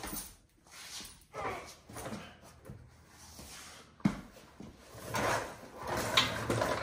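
Scattered clunks and scraping from work under a car, with a sharp knock about four seconds in.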